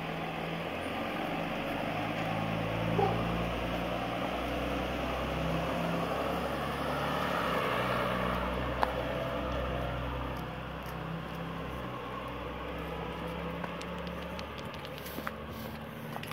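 A motor vehicle's engine runs nearby: a steady low hum with road noise that grows louder toward the middle and eases off after about ten seconds. A few light clicks come near the end.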